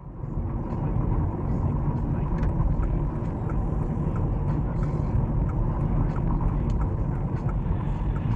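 Steady low rumble of a moving car, road and engine noise as picked up by a dashcam inside the vehicle.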